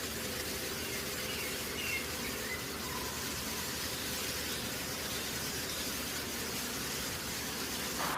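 A steady hiss, even and unbroken, with a few faint short chirps about two seconds in.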